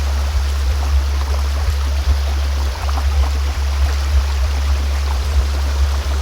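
A steady, deep tone of a sound-healing frequency, played over the even rushing of a flowing stream.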